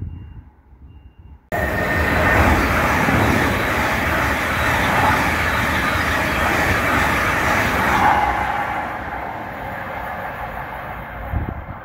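A train passing at speed: a loud, steady rush of wheel and air noise that cuts in abruptly about a second and a half in and eases off over the last few seconds.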